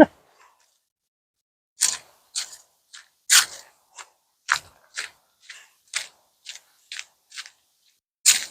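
Footsteps crunching at a walking pace, about two steps a second, starting about two seconds in.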